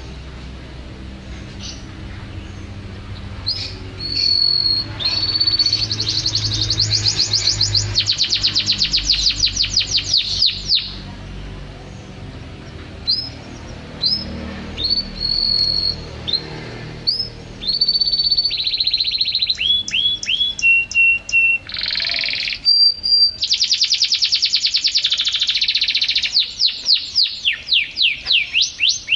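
White-rumped shama (murai hutan) singing: clear held whistles and short notes, broken by long runs of rapid downward-sweeping notes repeated several times a second, first about six seconds in and again near the end.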